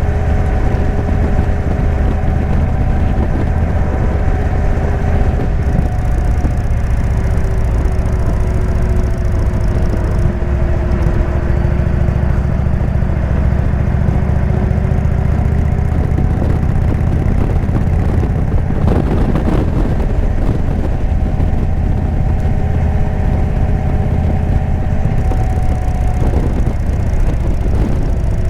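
Indian V-twin motorcycle engine and Jekill & Hyde exhaust running steadily while riding, the engine note drifting gently lower and back up.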